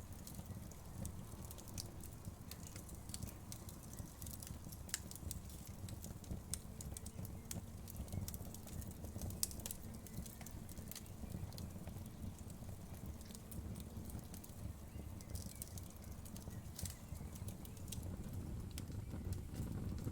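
Wood fire crackling in a fireplace: a steady low rumble of the flames with scattered sharp crackles and pops of the burning wood.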